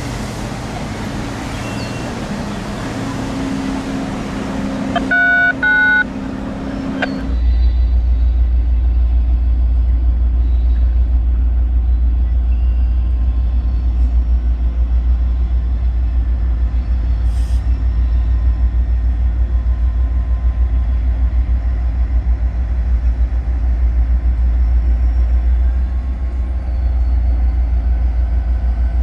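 A loud, steady low rumble of a train, starting abruptly about seven seconds in. Before it comes a broad hiss with two short tonal blasts, about five and six seconds in.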